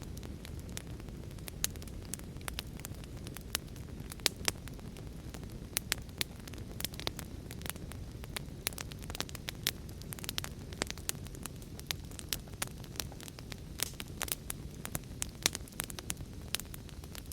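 Wood fire burning in a fireplace: a steady low rumble of flame with frequent sharp, irregular crackles and pops of burning logs.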